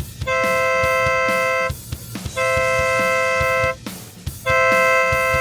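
Committee boat's air horn sounding three long blasts, each about a second and a half with short gaps between, the signal at the end of a race start countdown.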